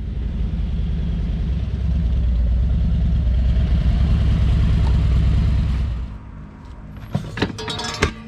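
Motorcycle engine running with a steady low rumble that stops about six seconds in. Plucked guitar music starts near the end.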